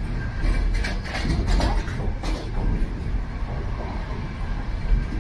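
Passenger train running along the track, heard from on board: a steady low rumble with several short, irregular clacks and rattles in the first half.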